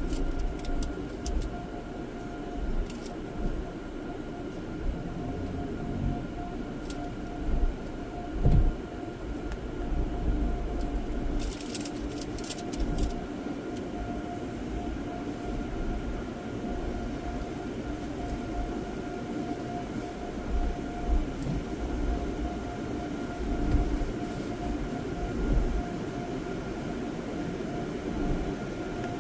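Car wash tunnel machinery running, heard from inside a car: a steady mechanical whine with a low rumble that swells and fades, and a few light clicks.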